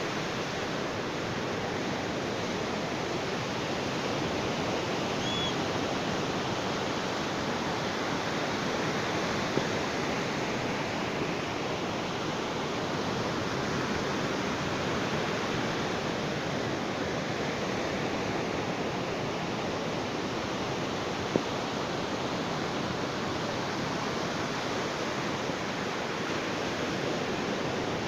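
Ocean surf on a beach: a steady, unbroken rush of waves.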